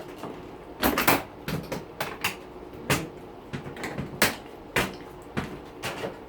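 Irregular metal clicks, clanks and knocks, about a dozen in all and loudest about a second in, as parts and tools are handled during the hand teardown of a dishwasher.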